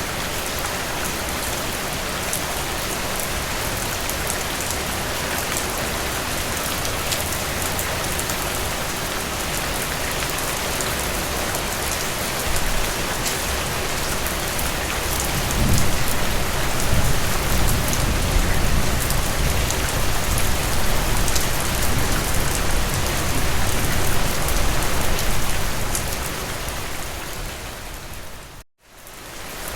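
Heavy rain falling steadily on surfaces, a dense hiss with fine ticks of single drops. About halfway through, a low rumble swells up and lasts about ten seconds. Near the end the sound drops out for an instant and fades back in.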